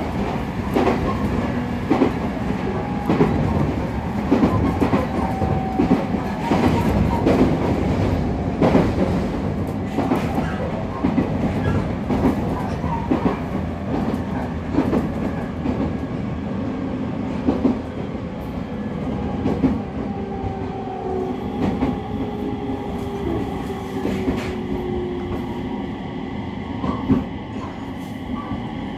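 Running sound inside the cabin of a JR East 701-series electric motor car (KuMoHa 701-1506) at speed: a continuous rumble with frequent clicks of the wheels over rail joints. A faint whine runs underneath and drifts slightly down in pitch in the second half.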